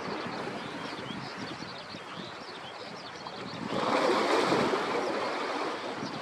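Sea waves washing in, one wave surging and breaking about four seconds in over steady wind noise, with faint high chirps throughout.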